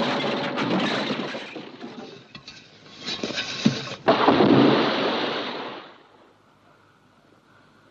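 Train-crash sound effects: a heavy rumbling crash dying away, a run of clinks and knocks of falling wreckage, then a second loud crash about four seconds in that fades to a low hiss.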